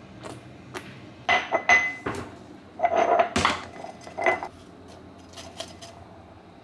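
Kitchenware clattering during cooking: a run of sharp clinks and knocks with brief metallic ringing, bunched in the middle, then a few lighter taps.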